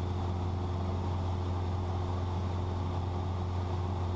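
Cessna 172's piston engine and propeller droning steadily in cruising flight, heard from inside the cabin, with a strong low hum that does not change.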